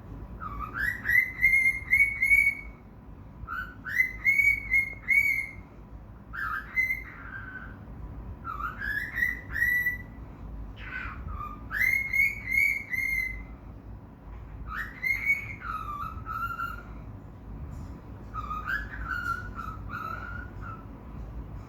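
Cockatiel singing: short phrases of rising whistled notes, repeated every two to three seconds with brief pauses between them.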